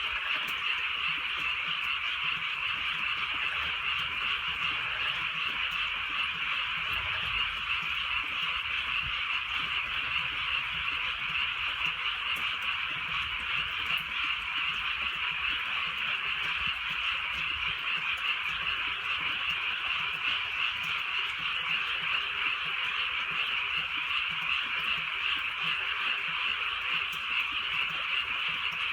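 A dense chorus of many frogs calling continuously at night, a steady mass of overlapping calls, with light drizzle ticking faintly behind it.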